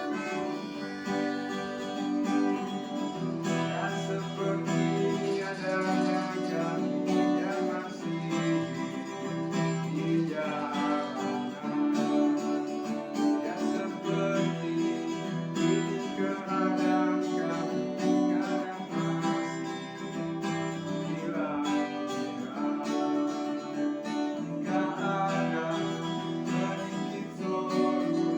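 Acoustic guitar strummed in a steady rhythm, with a melody line played over it.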